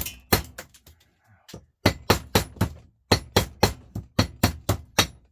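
Hammer blows striking parts of a Volvo truck starter motor to knock them loose. The blows come about four a second, in three quick runs with short pauses between.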